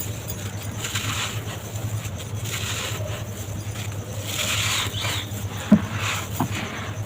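Dry, brittle material crumbled by hand in repeated crackling bursts about once a second, with one sharp crack near the end. A steady low hum runs underneath.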